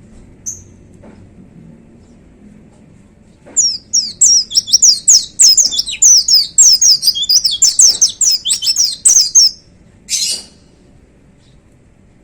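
A white-eye (pleci) singing a fast run of high, quickly sweeping notes for about six seconds, after a single short chirp. A brief harsh, rasping note follows the run.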